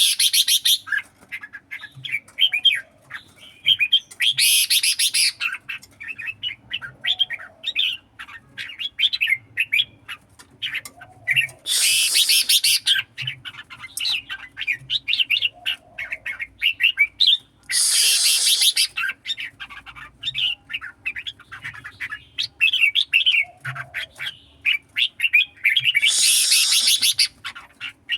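Red-whiskered bulbuls singing in competition: quick, chirping song phrases run almost without pause, broken five times by loud, harsh bursts of about a second each.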